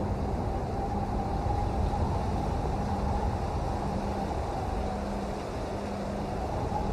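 Steady rain, an even rushing noise that is heavy in the low end, with a faint low hum that comes and goes.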